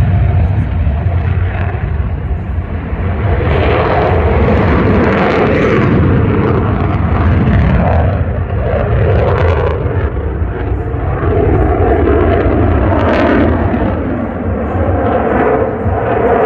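Fixed-wing aircraft engine noise: a loud, steady low rumble with a rougher mid-range noise over it.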